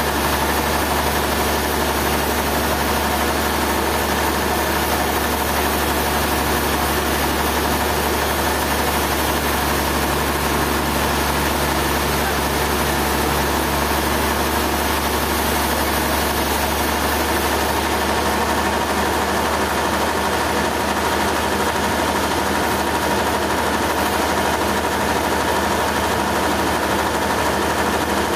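Sawmill machinery running steadily: an even, unbroken engine-like drone with a low hum, holding the same pitch and level throughout.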